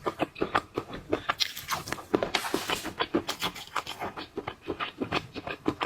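Close-up eating of shellfish: a dense run of irregular crackling clicks as shells are cracked, peeled and chewed, with a brief hissing burst about two and a half seconds in.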